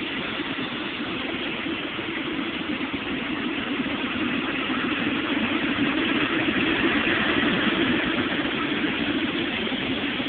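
Boeing 777 freighter's GE90 turbofan engines running at low taxi thrust: a steady jet engine rush and rumble that grows a little louder past the middle, then eases.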